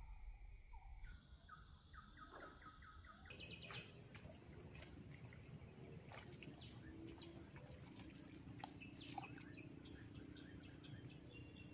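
Faint birdsong: quick runs of short chirping notes, repeated several times, over a quiet outdoor background with a faint low hum in the second half.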